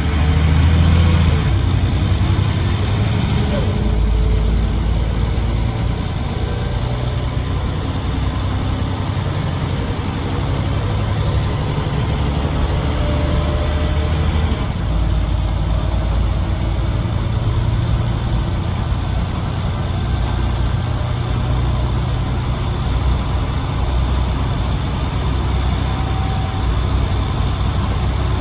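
Scania OmniCity single-decker bus's diesel engine and ZF automatic gearbox running on the move, a steady low rumble whose note changes several times as the bus pulls and shifts gear.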